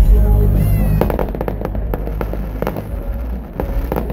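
Fireworks going off in quick succession: a rapid, irregular string of bangs and crackles that starts about a second in.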